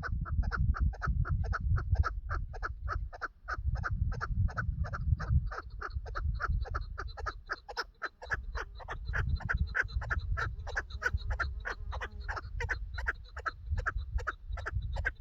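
Chukar partridge giving its rapid repeated chuck call, about three to four notes a second in an unbroken series, with a second bird overlapping for a while partway through. A low rumble comes and goes underneath.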